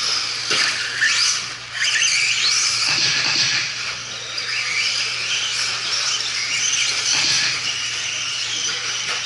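Several RC stadium trucks racing together, their motors whining at overlapping pitches that rise and fall as the trucks accelerate and slow. There are a couple of short knocks in the first two seconds.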